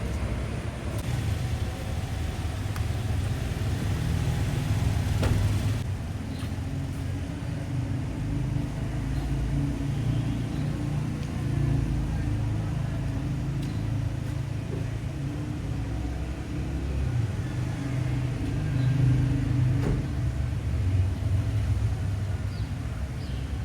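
Toyota Corolla XLi car being driven: a steady low engine and road rumble.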